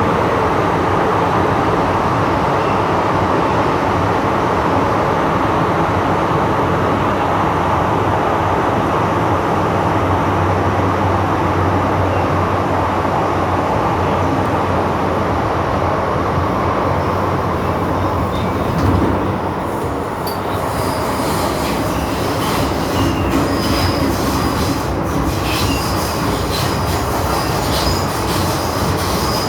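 MTR M-train electric multiple unit running, heard from inside the carriage: a steady rumble of traction motors and wheels on rail. About two-thirds of the way through, a high-pitched wheel squeal and scattered rail clicks come in.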